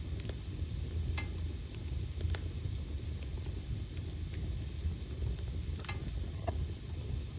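Wood fire burning slowly in a fireplace: a steady low rumble with a faint hiss, and a few sharp crackles from the logs about one, two, six and six and a half seconds in.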